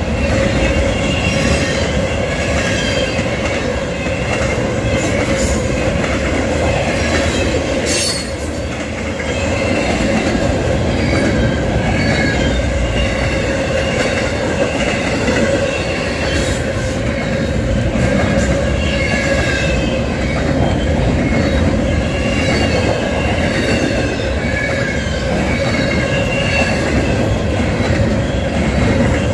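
Freight train cars rolling past on the rails, with wheels squealing in high wavering tones over a steady rumble; one sharp clank about eight seconds in.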